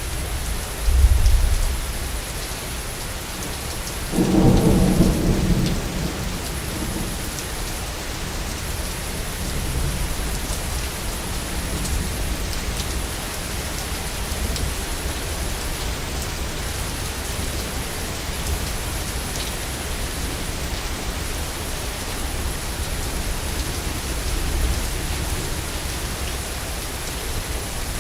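Steady heavy rain with thunder: a short low boom about a second in, then a louder thunderclap at about four seconds that rumbles away over a second or two.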